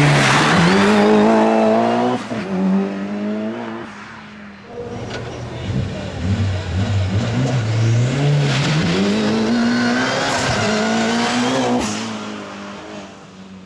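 Eggenberger-built 2-litre turbocharged four-cylinder of a Mitsubishi Evo 8 race car accelerating hard, revs climbing through the gears with a break at each upshift. It comes and goes as the car runs past, rising again about halfway through and fading near the end.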